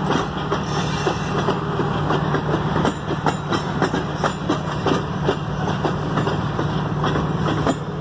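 Long freight train's cars rolling past: a steady rumble of steel wheels on the rails, with irregular clacks and clanks as the wheels cross the rail joints.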